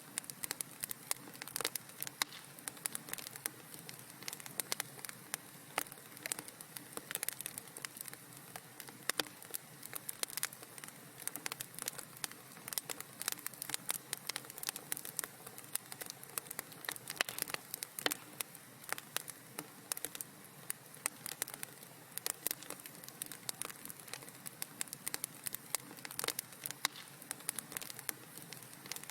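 Wood fire in a fireplace crackling, with many small sharp pops and snaps coming irregularly over a soft steady hiss.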